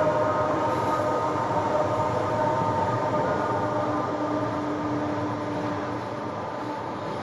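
Train passing close by: a loud, steady rumble and rattle of rolling cars with high, held squealing tones from the wheels, easing slightly toward the end.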